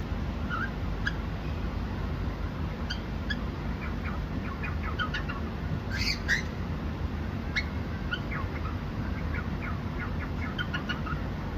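Cockatiel chirping: many short, scattered chirps and squawks over a steady low background hum.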